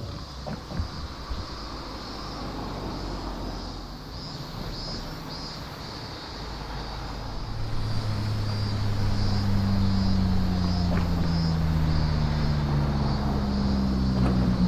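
A car engine running, growing louder from about halfway through as it nears, its pitch rising slowly as it pulls away.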